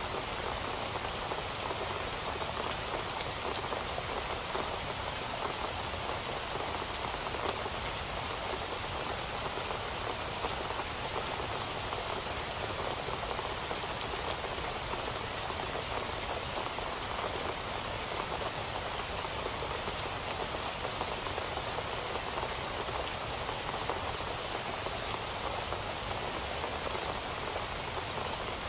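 Steady rain falling on a surface, a constant hiss of many small drop ticks with no change in intensity.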